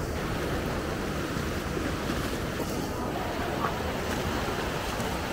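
Steady rush of flowing water from a mountain stream or waterfall, an even broad noise without a break.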